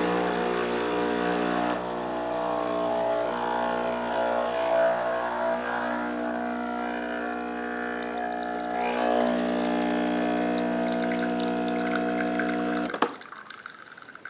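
Espresso machine pump humming steadily while a shot is pulled, its pitch shifting slightly about nine seconds in, then cutting off suddenly about a second before the end as the extraction stops.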